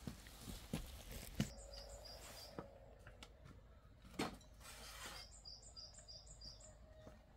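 A small bird chirping in two quick runs of short, high notes that alternate between two pitches, about two seconds in and again around five seconds in. A few scattered knocks and thumps sound between them.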